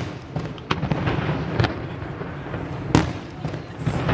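Aerial fireworks display: four sharp bangs of shells bursting, the loudest about three seconds in, with a continuous crackle between them.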